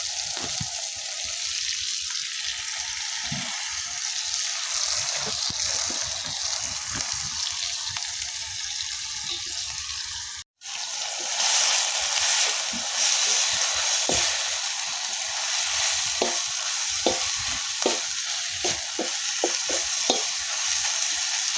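Sardines and tomatoes sizzling in a pan, a steady frying hiss. After a brief break about halfway, the sizzle comes back with frequent clicks and scrapes of stirring.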